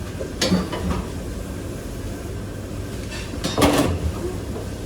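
Dishes and pots clattering during kitchen clean-up: a sharp knock about half a second in and a louder cluster of clanks near the end, over a steady low hum.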